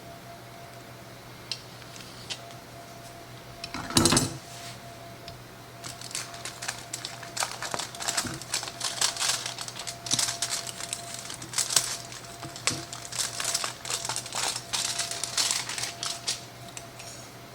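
A knock about four seconds in, then a long run of quick, irregular scraping and clicking as a knife cuts through a frozen cake on a platter.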